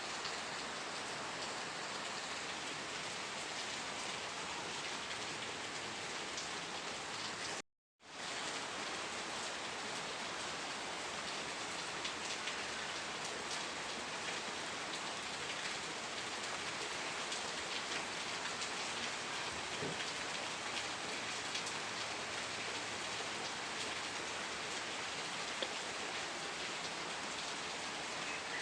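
Steady, dense rain falling, with scattered drop ticks. The sound cuts out completely for a split second about eight seconds in, then resumes.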